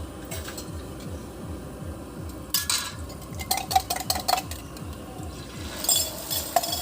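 Metal utensils clinking and scraping against cookware at a street-food stall, in a quick cluster about halfway through and again near the end, over a low steady rhythmic throb.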